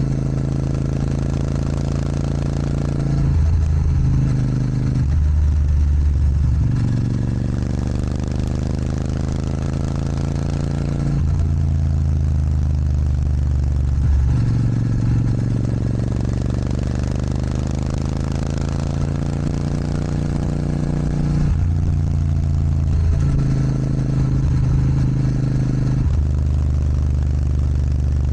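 Royal Enfield Super Meteor 650's 648 cc parallel-twin engine through an aftermarket Rhino Racing sports exhaust, under way. The exhaust note climbs steadily as the bike accelerates, then drops sharply at each gear change, several times over.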